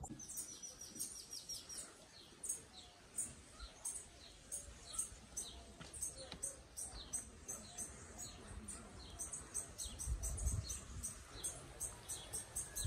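Small birds chirping: many short, high chirps in quick, irregular succession, some falling in pitch.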